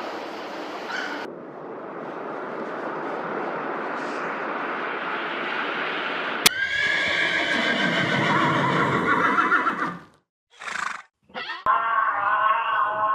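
Horses neighing: after a first half of steady noise, a long whinny starts abruptly about halfway through and falls in pitch, followed by short calls and a whinny with a trembling pitch near the end.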